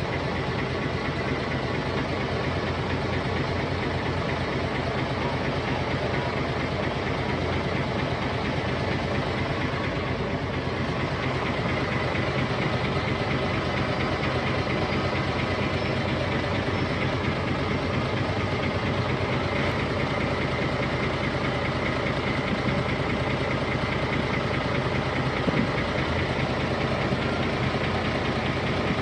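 Heavy earthmoving machine's diesel engine running steadily at a constant speed.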